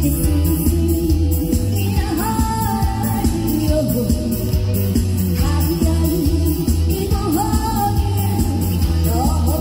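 A singer performs a Korean folk-pop song live with a band. A steady bass beat pulses under a voice that slides between notes.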